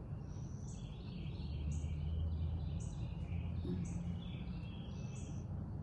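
Songbirds calling at dawn: one bird repeats a short high chirp about once a second while others sing busier notes between, over a steady low background rumble that grows louder in the middle.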